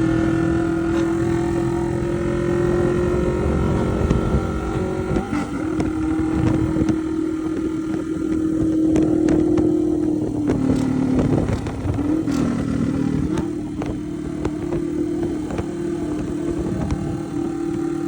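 A vehicle engine running steadily with a hum, its pitch stepping down and back up a few times.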